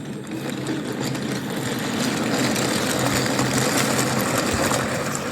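Small electric motor of a battery-powered toy running steadily with a whirring hum, switched on at the start.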